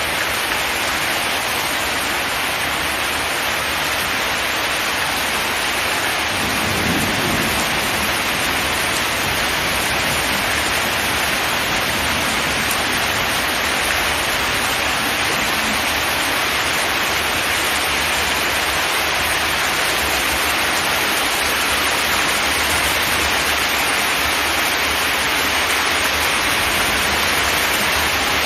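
Steady, dense rain drumming on a zinc metal roof, with a brief low rumble about seven seconds in.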